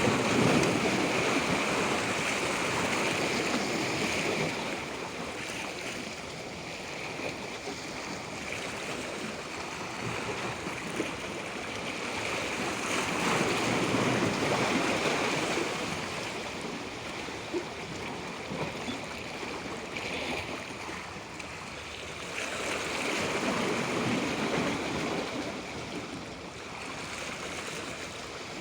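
Waves washing in: a rush of water that swells and fades about every ten seconds, three surges in all, over a steady high hiss.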